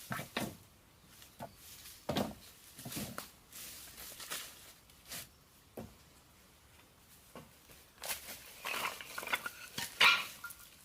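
Scattered light knocks and clatter, growing busier near the end with a few brief ringing tones.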